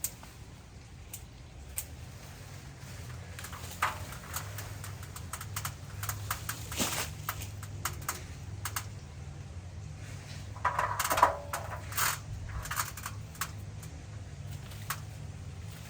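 Irregular clicks, snaps and crackles of twigs and branches being cut and handled during tree trimming, with a burst of louder crackling about eleven seconds in, over a steady low hum.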